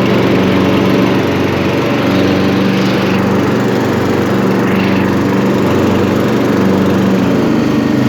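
Craftsman LT1000 lawn tractor's 18 hp Briggs & Stratton engine running steadily under load, driving in third gear with the mower blades engaged.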